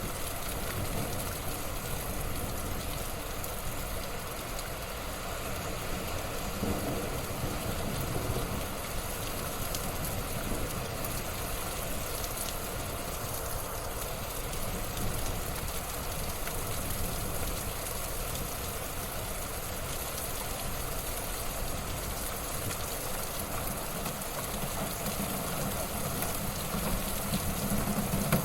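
Wood fire burning in a fireplace: a steady hiss with scattered small crackles.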